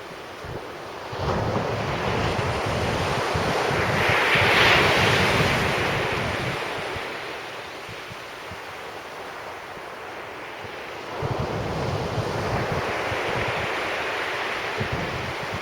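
Sea waves breaking and washing up the beach in slow surges: one swells up from about a second in, peaks around the middle and fades, and another builds from near the end. Wind buffets the microphone with a low rumble during the surges.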